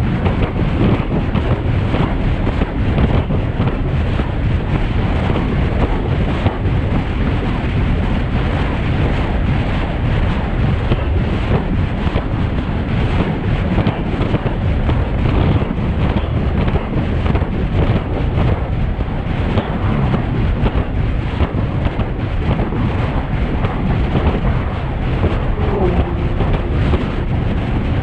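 Loud, steady wind buffeting the microphone of a camera on a road bike descending at speed, a continuous rushing roar with most of its weight in the low end.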